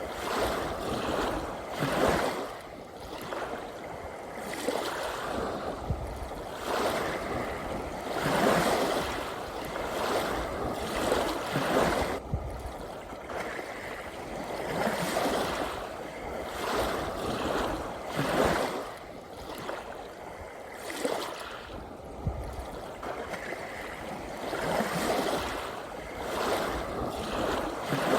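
Ocean waves washing in: a rushing noise that swells and falls back every two to four seconds.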